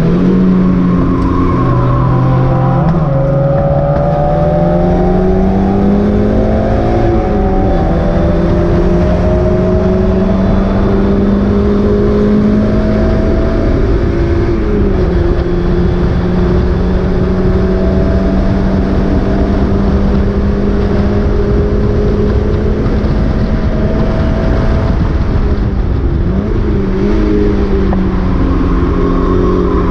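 Mazda MX-5 race car's four-cylinder engine running hard at racing speed. Its pitch climbs slowly through long pulls and dips and wobbles at several gear changes, over steady wind and road noise.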